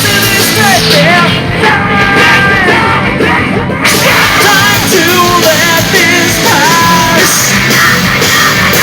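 Live rock band playing loud, with distorted guitars, drums and yelled, sung vocals, as heard through a phone's microphone in the crowd. The sound grows brighter and fuller about four seconds in.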